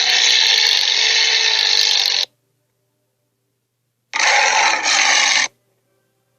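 Two harsh dinosaur screeches from a cartoon sharptooth (Red Claw): a long one of about two seconds, then a shorter one about four seconds in that breaks briefly in the middle.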